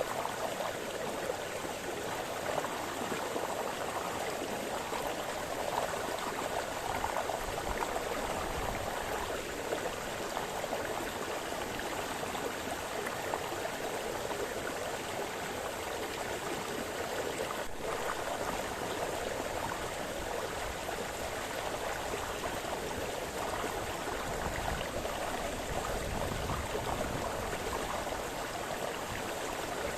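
Small forest brook splashing and burbling over stones, a steady water rush strongest in the middle range.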